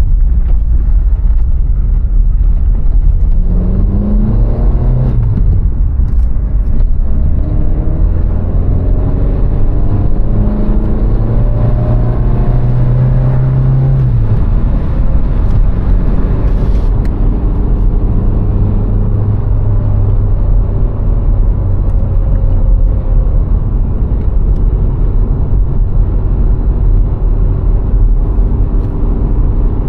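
VW Golf IV's 1.6-litre petrol four-cylinder engine driving on the road over a heavy low rumble of tyres and wind. Its revs rise a few seconds in, and again from about a third of the way through to the middle, then hold steady at cruise.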